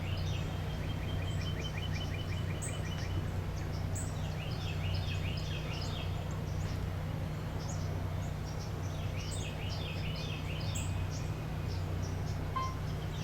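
Wetland ambience: assorted birds chirping and calling, with a rapid trill of repeated notes near the start and clusters of short chirps again later, over a steady low hum.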